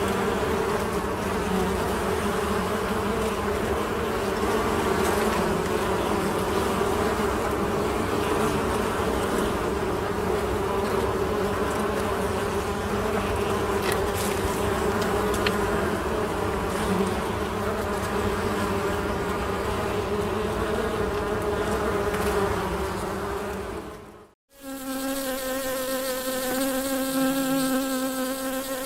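Honey bees buzzing in a steady, continuous hum. A little over 24 seconds in, the sound drops out for a moment, then a steadier, clearer buzz begins.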